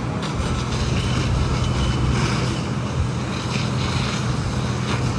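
Steady low engine hum under wind noise on the microphone.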